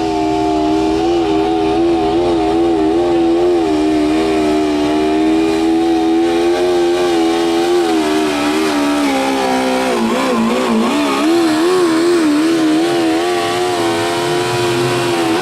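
Modified pulling lawn tractor's engine running flat out under load as it drags the sled. It holds a steady high pitch, then bogs and wavers about ten seconds in as the load builds, recovers, and drops off right at the end as the pull finishes.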